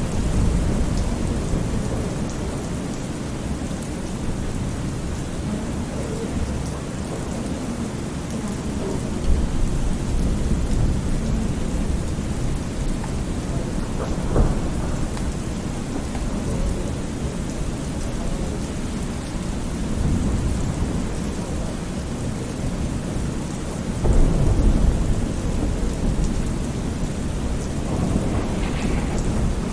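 Thunderstorm ambience: steady rain falling with low, rolling thunder underneath, swelling into louder rumbles three times, the strongest near the end.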